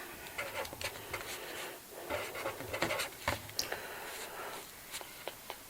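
Irregular close-up clicks and taps with light scratchy rubbing: cash register keys being pressed and small items handled.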